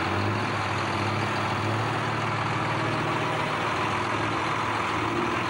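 Super stock pulling tractor's diesel engine running steadily at an even, low pitch, not under full load.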